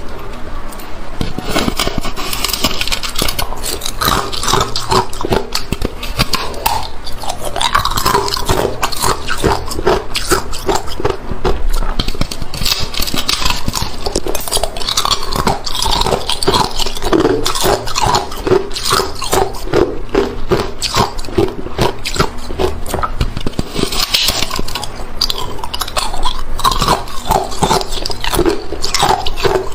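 Hard, clear ice cubes being bitten and chewed close to the microphone: a continuous run of loud, irregular crunches and cracks as the ice breaks between the teeth.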